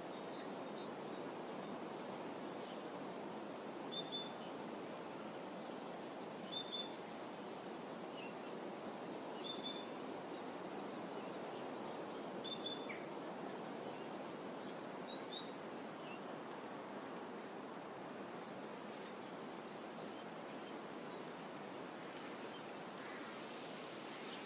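Small birds chirping with short, repeated high notes and a few brief trills, frequent in the first half and sparse after, over a steady soft wash of outdoor ambience.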